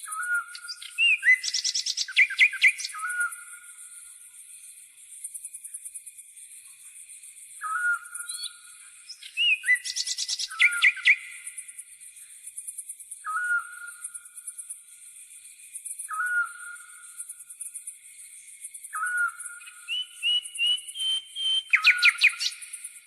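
Nature soundscape: a steady high pulsing chirr of insects such as grasshoppers, with a short whistled call repeating every few seconds. Three bursts of quick bird song come through it, at the start, about ten seconds in and near the end.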